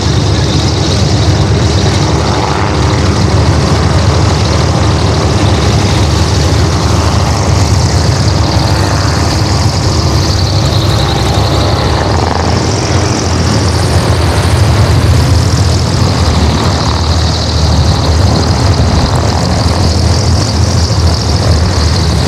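Propeller aircraft engine running steadily, with a low hum and a slowly wavering upper whine.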